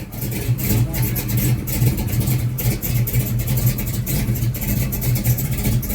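Big-block V8 idling with an uneven, lopey beat from its aggressive cam.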